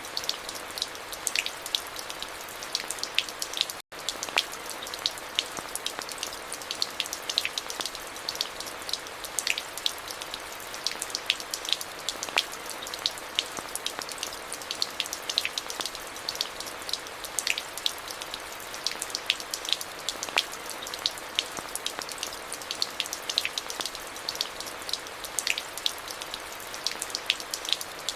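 Steady rain falling, an even hiss with many distinct close drops ticking sharply. The sound cuts out for an instant about four seconds in.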